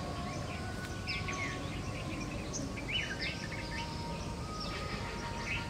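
Birds chirping, many short quick chirps that mostly fall in pitch, over a steady low background hiss.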